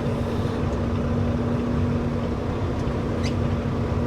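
Semi-truck's diesel engine running steadily, a low rumble with a constant droning hum.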